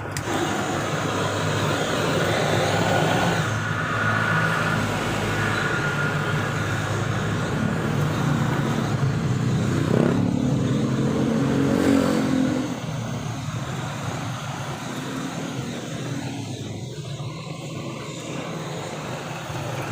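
A motor vehicle engine running steadily, with a rise in pitch about ten seconds in; it drops to a quieter level after about twelve seconds.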